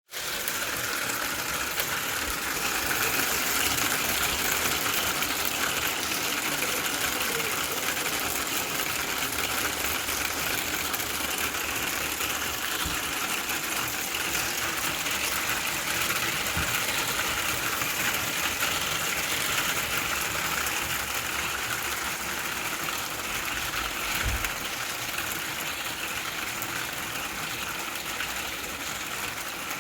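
Hail and heavy rain beating down in a steady, dense hiss, with a few dull low thumps now and then.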